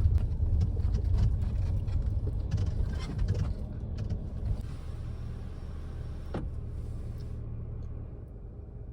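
A car's engine running with a low rumble and scattered knocks and clicks, the kind a vehicle makes moving over rough ground. It grows quieter after about four seconds and settles into a steadier low hum, with one sharp click about six seconds in.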